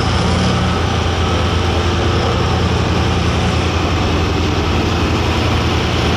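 Engine of a Light Limited Super Stock pulling tractor running heavily at a steady, unchanging pitch, loud and deep.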